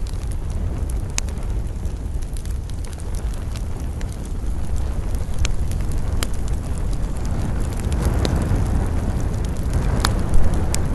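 Wood campfire crackling, with scattered sharp pops over a steady low rumble. Wind rushing through pine trees swells after about eight seconds.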